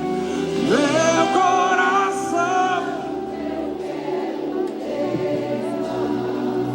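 Gospel worship song: sung voices hold long notes with vibrato over a steady sustained accompaniment, the slow lyric line between "meu coração" and "diante do teu".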